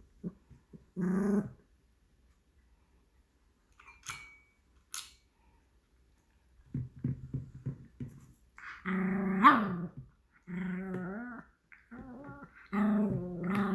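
A Pomeranian 'talking' to ask for food: a short call, then low grumbles building into several drawn-out, wavering growl-whines that rise and fall in pitch, the loudest about two-thirds of the way through.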